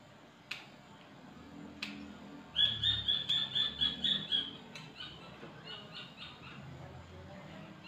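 A bird chirping a quick run of about eight identical high notes, roughly five a second, then a few fainter ones. Two sharp clicks come before it.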